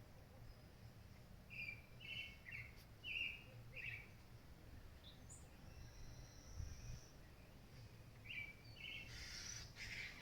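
Birds calling faintly: a quick run of short chirps, then a thin high whistle held for about a second and a half midway, and another short run of chirps near the end, over a low steady rumble.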